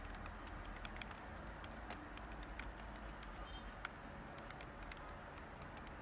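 Light computer keyboard typing: soft, irregular key clicks, one a little sharper about four seconds in, over a steady background hiss.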